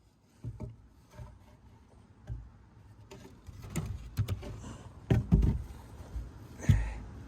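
Wooden boards being handled: a string of knocks and thumps over a low rumble, coming more often and louder from about halfway through.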